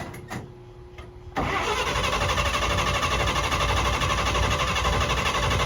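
Starter cranking the 1948 Chevy truck's inline-six engine, kicking in suddenly about a second and a half in and running steadily without the engine catching. The truck is failing to start.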